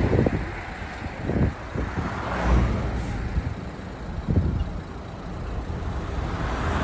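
Road traffic noise, a steady rumble of passing vehicles, with several low thumps of wind buffeting the microphone.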